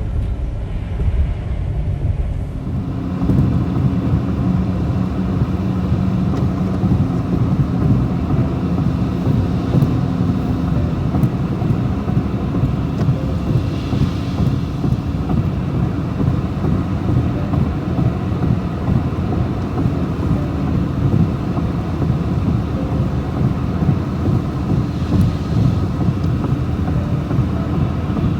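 Road vehicle running: a steady low engine-and-road rumble with a low hum, growing fuller about two and a half seconds in and then holding steady.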